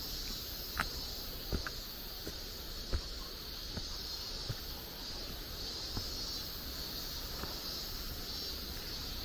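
Footsteps on a forest trail, a knock every half second to a second, over a steady high-pitched hiss that swells and fades.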